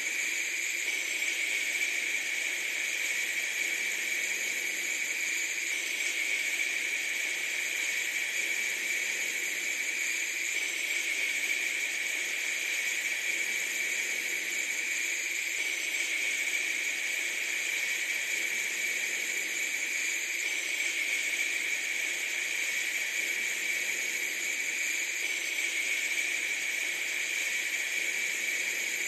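A steady, unchanging hiss with no breaks or beats, bright and high-pitched, with nothing deep in it.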